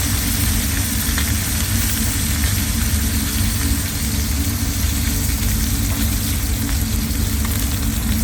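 Food sizzling as it fries in a pan, a steady crackling hiss with faint pops, over a constant low rumble.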